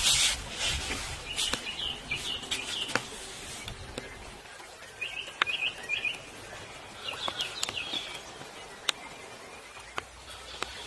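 A bird chirping in short, wavering phrases, four times, with scattered sharp clicks and a burst of rustling at the start.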